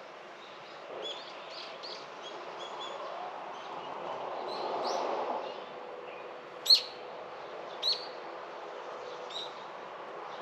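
Garden birds chirping: scattered short chirps, then two louder sharp calls about a second apart, two-thirds of the way through. Behind them is a steady outdoor hiss that swells and fades around the middle.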